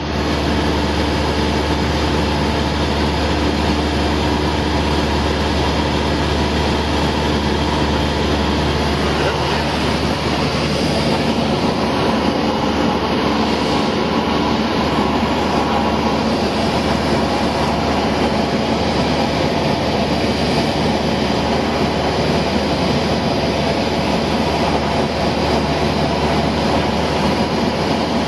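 Cessna 172's piston engine and propeller droning steadily as heard inside the cabin in flight, with a slight shift in the engine note about nine seconds in.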